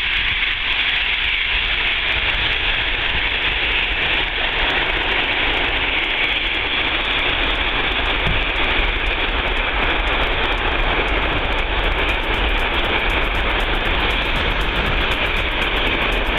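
Jet aircraft engines, a loud steady noise with a strong high hiss over a low rumble.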